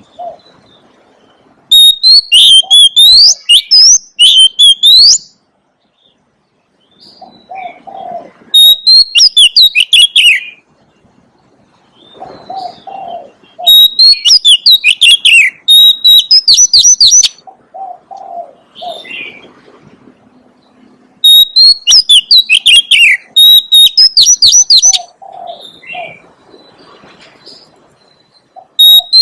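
Oriental magpie-robin singing: loud phrases of quick, rising and falling whistled notes, each lasting two to three and a half seconds, four times with pauses between and a fifth starting at the very end. Lower cooing notes sound in the pauses.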